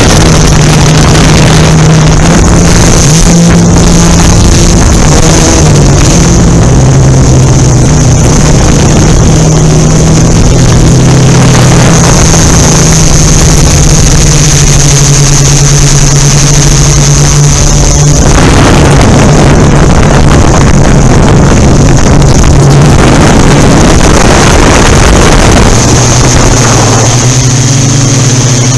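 Yuneec Typhoon Q500 4K quadcopter's motors and propellers hovering: a loud, steady buzzing hum whose pitch shifts as the motors work to hold position, over wind noise on the microphone. Near the end the hum drops to a lower pitch.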